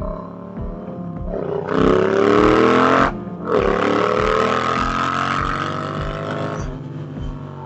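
Yamaha FZ-07 parallel-twin engine pulling hard, its pitch rising, then cutting briefly for an upshift about three seconds in and rising again through the next gear before easing off near the end, with wind rushing past.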